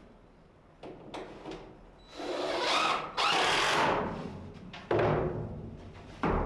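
Power drill driving screws into wood in two short runs, each under a second, with a few knocks before and after.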